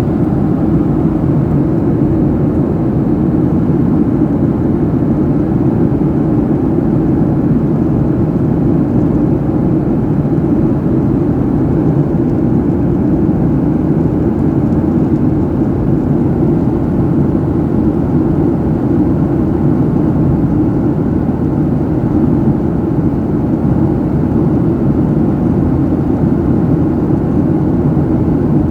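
Airliner cabin noise in flight: the steady, even, low noise of the jet engines and airflow as heard inside the passenger cabin.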